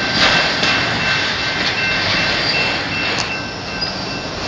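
Freight train of auto-rack cars rolling past close by: a steady rumble and rattle of steel wheels on the rails, with a faint steady high-pitched whine and a few clicks.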